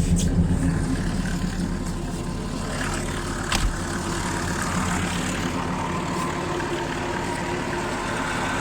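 Lada Niva's engine running steadily in second gear, turning the front wheel, with one short click about three and a half seconds in. It runs evenly with no knocking or rattling now that the loose front hub bearing nut has been tightened.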